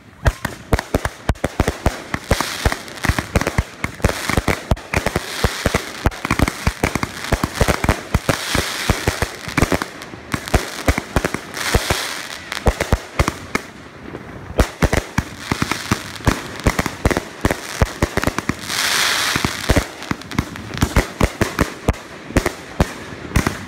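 A fireworks finale: a dense, continuous barrage of sharp bangs from aerial shells and cakes going off in rapid succession, over a steady crackle and hiss, with several surges of louder crackling.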